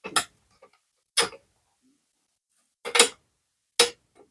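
Four sharp clicks and knocks, about a second apart, from handling the tin roof and screws on the wooden birdhouse.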